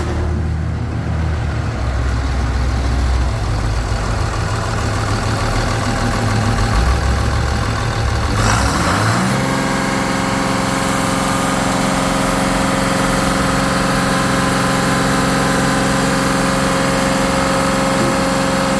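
2006 Cummins ISB 5.9 inline-six turbo diesel running: it idles with a low rumble, then about halfway through is revved up and held at a steady higher speed.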